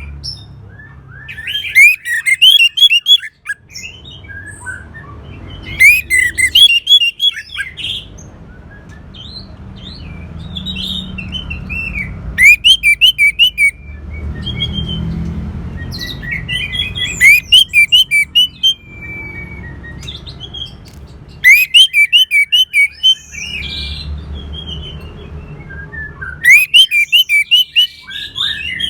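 Orange-headed thrush song: six loud phrases of rapid, varied whistled notes, one about every four to five seconds, with a low steady rumble in the pauses between them.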